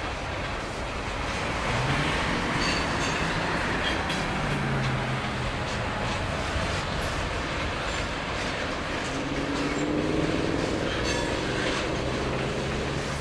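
Freight cars of a CN freight train rolling past: a steady rumble of steel wheels on the rails, with occasional clicks and a faint rising whine about nine seconds in.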